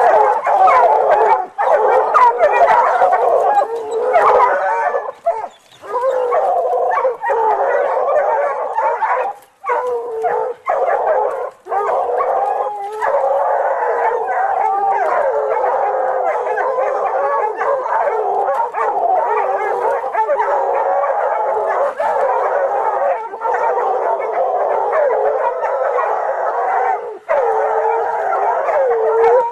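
Several dogs howling and whining together, many wavering calls overlapping continuously, with a few brief breaks.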